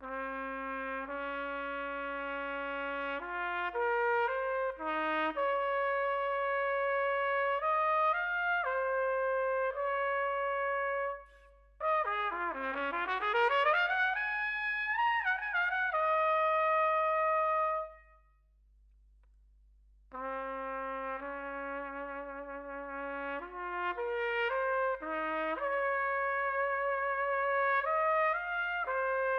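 A solo high brass instrument playing a slow melody of held notes without vibrato. It then plays a wavering run that sweeps down and back up. After a short pause the same opening phrase starts again, now played with vibrato.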